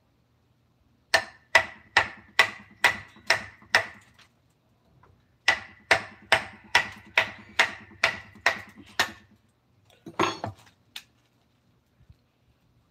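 Hand tool hammering in a steady rhythm of about two blows a second, each with a short ringing note. There are two runs, about seven blows and then about nine, with a pause between them. A brief scrape follows about ten seconds in.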